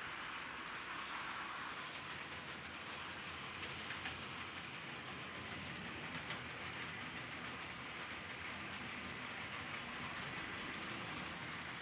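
HO scale model train running steadily along the track, a constant rolling noise with faint scattered clicks from the wheels.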